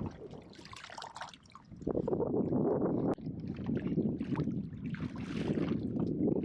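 Water sloshing and splashing against a kayak, with wind on the microphone, growing louder about two seconds in; a single sharp knock comes a second later.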